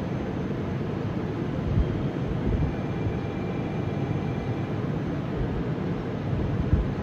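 Fukuoka City Subway 1000N series train running, a steady noise heavy in the low end, with a faint high whine in the middle. This is the jet-aircraft-like odd noise these trains are known for.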